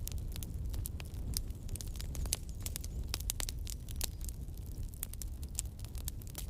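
Campfire burning, the wood crackling and popping in dense, irregular snaps over a low steady rumble.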